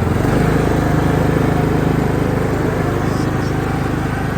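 Riding lawn mower engine running steadily under load as the mower is driven in gear, its note shifting slightly just at the start and then holding even.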